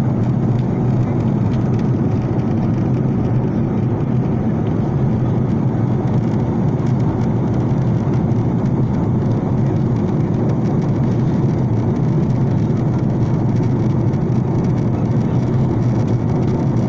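Steady low drone inside an airliner's passenger cabin, holding an even level throughout.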